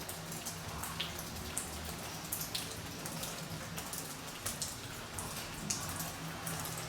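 Rain falling, heard as an irregular patter of separate drop ticks, over a steady low hum.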